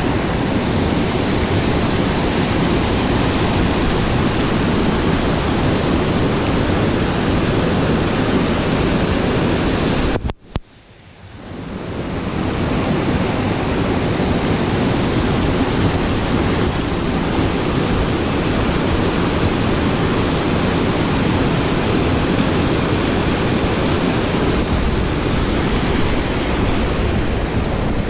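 Loud, steady rush of water. It drops out suddenly about ten seconds in, then swells back up over the next few seconds.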